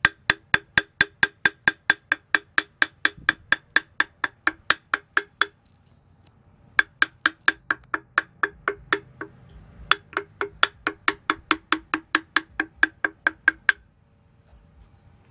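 Rapid, even knocking of a hard, ringing object, about five strokes a second, in three runs with short pauses between.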